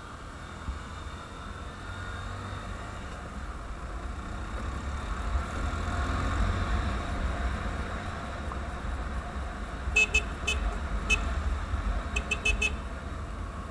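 Vehicle running with a low wind-like rumble that swells and eases, then a quick series of short horn toots near the end.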